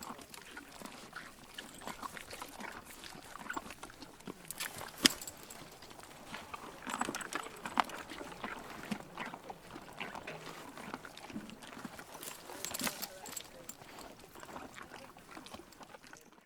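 An animal eating, with irregular wet chewing crunches and smacks.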